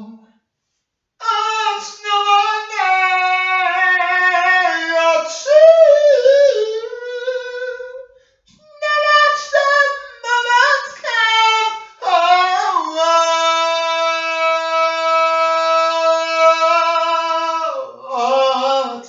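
A solo voice singing unaccompanied in sliding, melismatic phrases, with a short break near the middle and a long held high note in the second half.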